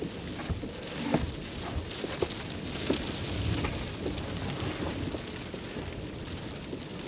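A steady rushing hiss with scattered light knocks and rustles.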